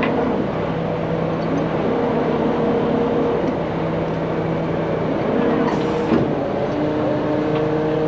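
Heavy truck engine running steadily with an even pitch, and a short burst of hiss about six seconds in.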